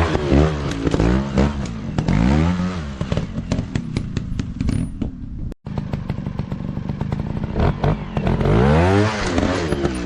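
Dirt bike engines revving up and down over and over, the pitch rising and falling about once a second, with scattered clicks and knocks. The sound breaks off for an instant about halfway, then the revving carries on.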